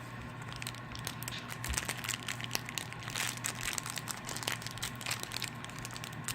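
Plastic toy blind bag crinkling as it is handled and worked open, with a run of irregular crackles.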